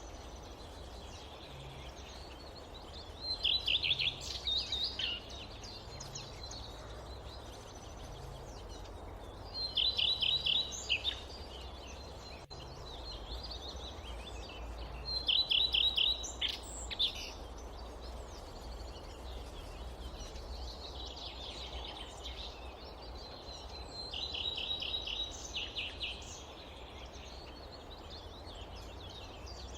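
A songbird repeating a short phrase of rapid high notes about every six seconds, five times, over a steady low rumble.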